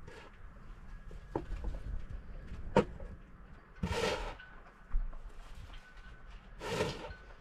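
Snow shovel working through deep snow: short scraping swishes as it scoops, twice, a few seconds apart, with a sharp single knock a little before the first.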